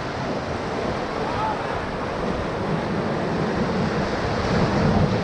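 Whitewater of the Ocoee River rushing around a raft running the rapids: a steady rush of water that grows a little louder near the end.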